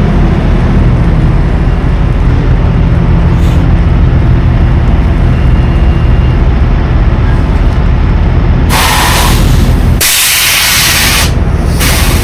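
Semi-truck's engine droning inside the cab, then loud hisses of air brakes about nine seconds in, the longest lasting about a second.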